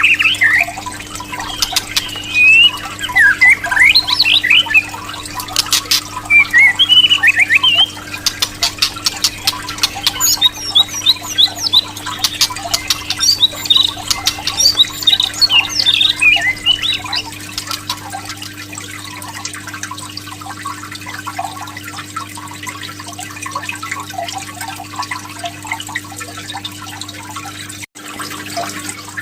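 White-rumped shama (murai batu) calling in quick series of sharp rising whistles and harsh squawks for about the first seventeen seconds, over trickling water; after that the bird is mostly quiet and the water runs on, with a brief cut-out near the end.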